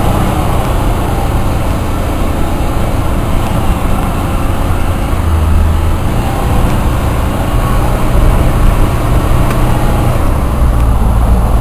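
2008 Jeep Wrangler's 3.8-litre pushrod V6 and tyre/road noise heard from inside the cabin while driving, a steady low drone. The engine note shifts about halfway through and again near the end.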